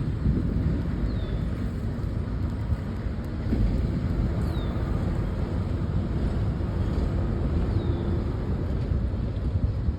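Freight train cars rolling past with a steady low rumble of wheels on rail.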